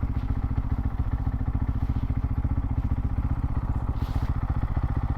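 Motorcycle engine running steadily at low revs, with an even, rapid pulsing beat and no revving.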